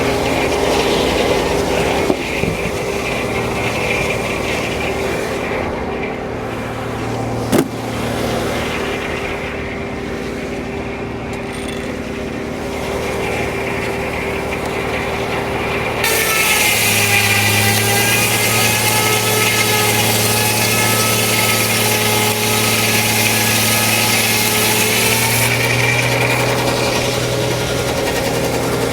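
Frick No. 1 sawmill running, its circular saw and power unit turning over steadily. About halfway through, the blade goes into the log and cuts for about ten seconds: a loud, bright hiss, with the engine note dropping a little under the load, then back to running free.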